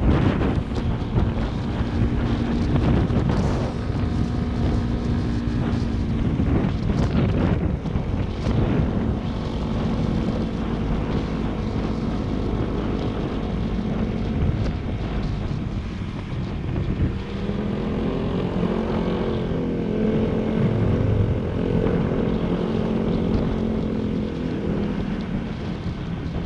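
Motorcycle engine running while riding, its pitch rising and falling with the throttle, with wind noise buffeting the microphone.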